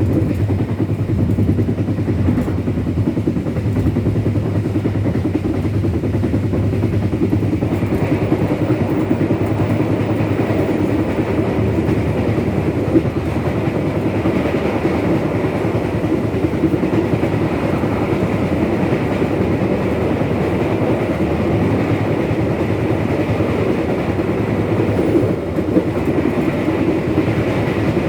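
Passenger train in motion: a steady rumble of the wheels on the rails.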